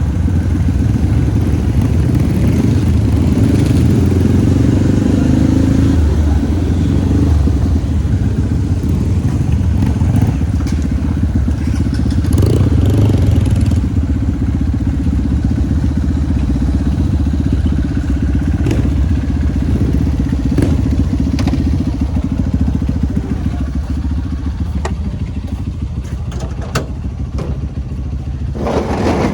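Trail motorcycle engine running steadily, with scattered knocks and clatter; it eases off slightly near the end.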